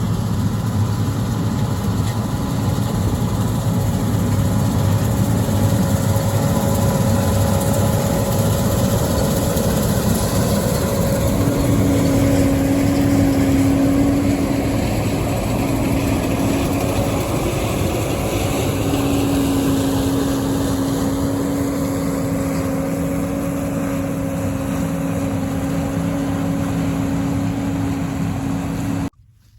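A combine harvester runs steadily while cutting soybeans, with a constant engine drone and a machine hum. The sound cuts off suddenly near the end.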